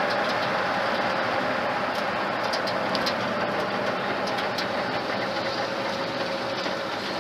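Ford flathead engine running steadily in a moving truck, heard from inside the cab. Its steady hum eases slightly lower and quieter toward the end.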